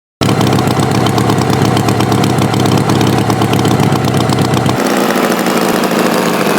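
Tractor engine sound effect running steadily, starting abruptly out of silence; its deepest tones drop away about five seconds in.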